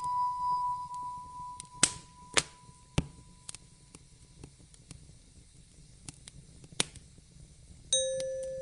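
Fireplace crackling, with a few sharp pops over a low steady background, under soft ambient music: a held high note fades away over the first few seconds, and a new lower note sounds near the end.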